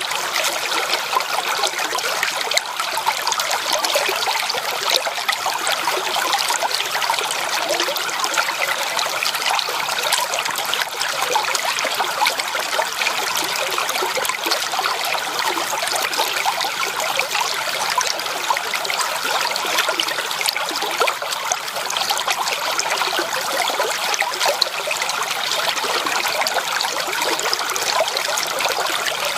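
A stream's water flowing steadily, a continuous even rush with little deep rumble.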